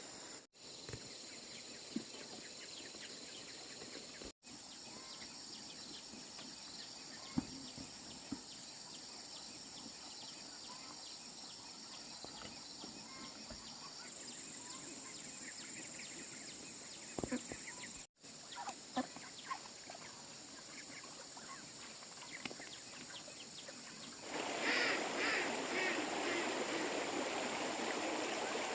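Outdoor rural ambience: a steady high-pitched hum with scattered small knocks and short poultry-like calls. About 24 seconds in, a louder rush of running water starts and continues.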